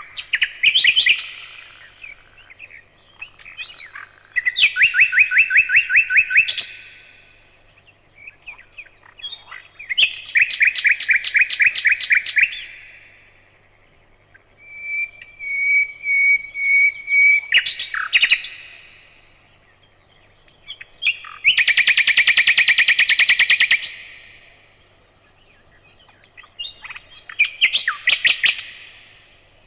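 Nightingale singing: six loud phrases separated by short pauses, each a rapid run of repeated notes, one of them opening with a string of steady piping whistles before a fast rattle.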